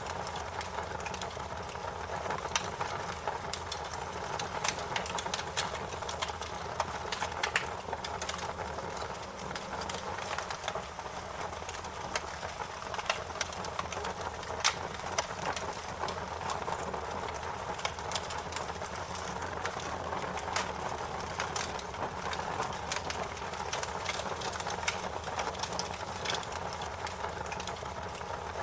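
Wood fire crackling: a steady hiss under many irregular small pops and snaps, with a few louder cracks.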